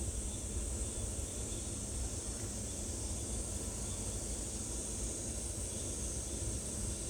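A steady high-pitched drone of insects, with wind rumbling on the microphone underneath.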